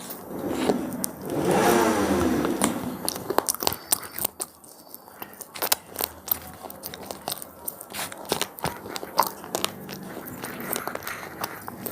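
Crunchy cheese pizza flavoured snack puffs being bitten and chewed close to the microphone, with many sharp crunches throughout. A louder drawn-out sound comes about a second in.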